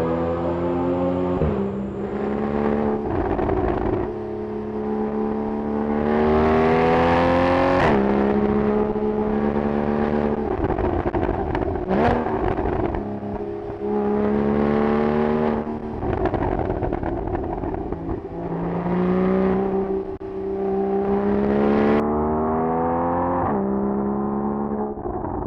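Porsche 981 Cayman's flat-six engine through an aftermarket valveless performance exhaust, pulling hard again and again. Its pitch climbs over a few seconds and then drops sharply at each gear change or lift, six or seven times, with a few sharp cracks at the drops.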